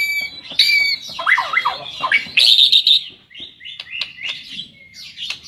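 White-rumped shama (murai batu) singing a varied song. It opens with clear repeated whistled notes, moves into swooping glides, then a dense rapid burst of notes, and ends on a series of short quick phrases.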